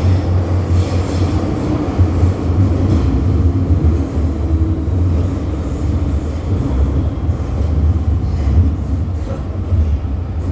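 MTR Island Line M-Train electric multiple unit running on the line, a steady low rumble of wheels on rail and running gear.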